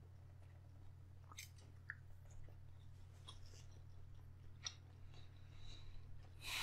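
Quiet chewing of smoked alligator meat, with scattered small mouth clicks and smacks over a steady low hum. A brief louder rustle comes near the end.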